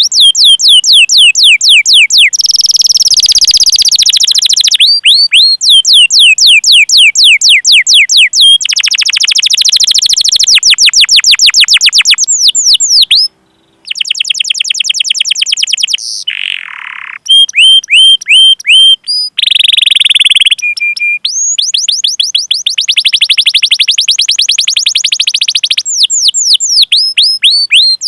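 Domestic canary singing fast rolling trills of rapid down-sweeping chirps, about ten a second, in runs of a few seconds broken by buzzier passages and a brief pause about halfway through.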